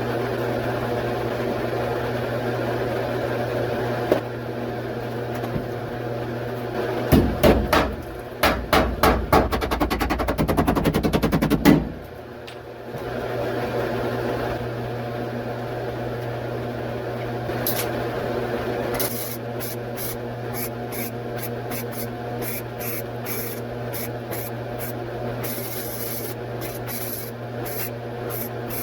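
Hand tool work on the truck's body panel over a steady electrical hum: a run of loud, closely spaced knocks and scrapes about seven seconds in, then quick, regular short scraping strokes from about two-thirds of the way through, typical of mixing and spreading body filler.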